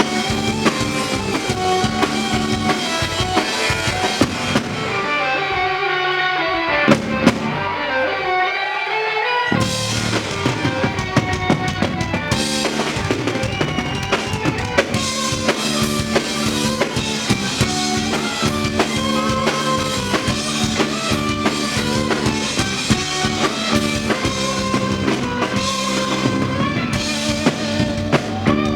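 Live band playing an instrumental passage with drum kit, bass and guitar. About five seconds in, the drums and bass drop out for a few seconds, then the full band comes back in together.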